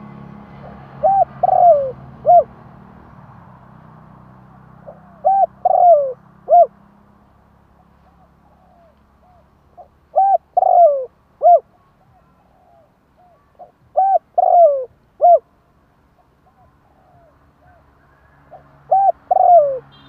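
Spotted dove cooing: five phrases, each a short coo, a longer falling coo and a short coo, about every four and a half seconds, with fainter coos in between.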